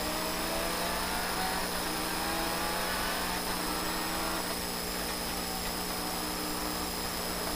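Citroën DS3 rally car's engine heard from inside the cabin, rising steadily in pitch as it pulls over the first four or five seconds, then running at a steadier note, with the anti-lag mode just selected.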